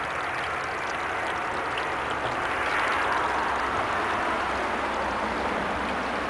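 Small rain-fed waterfall spilling off a hillside: a steady rushing of water that swells slightly partway through, with a low rumble of road traffic underneath.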